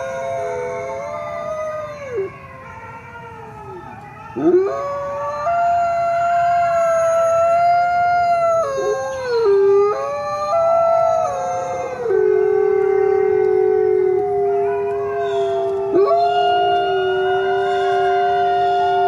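Coyotes howling together: several long howls overlap at different pitches, held fairly steady, with quick upward swoops about four seconds in and again near the end.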